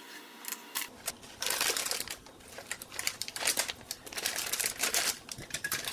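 Crinkling of a plastic package being handled, in irregular bursts from about a second and a half in.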